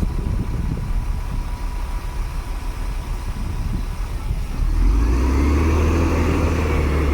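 Heavy earthmoving machine's diesel engine running. About two-thirds of the way through it gets louder as the engine revs up, with a rising whine, then the sound cuts off abruptly.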